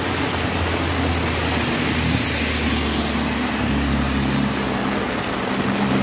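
Heavy rain falling in a steady hiss, with a passing motor vehicle's engine droning low underneath; the engine note rises in pitch about halfway through.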